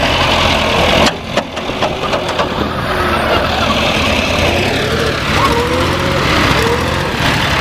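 Tractor engine running steadily, with a brief dip about a second in.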